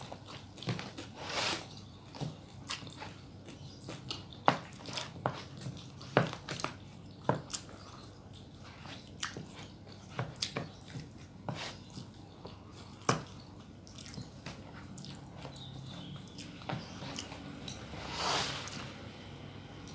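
Mukbang eating close to the microphone: a person biting and chewing, with many sharp crunching clicks at irregular intervals and a brief louder burst of noise about 18 seconds in.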